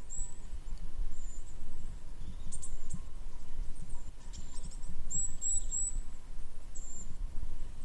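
Small birds chirping: short, high-pitched calls scattered throughout, with three in quick succession about five seconds in, over a steady low rumble.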